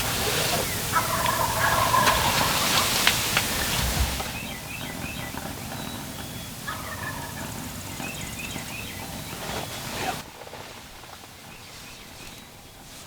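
Wild turkey gobbling: a loud rattling gobble about a second in and a fainter one around seven seconds, with a few faint short calls between.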